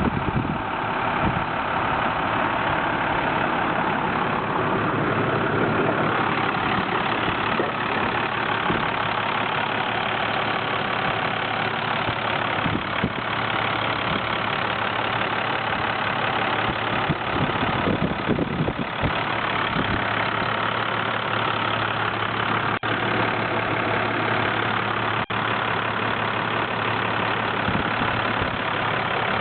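The diesel engine of a 2005 International fuel truck idling steadily.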